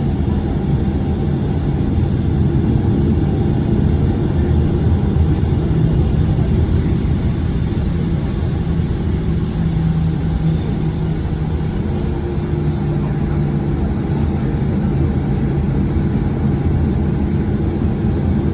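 Steady low rumble and hum inside the cabin of a Boeing 737-900ER on the ground, its CFM56 engines idling.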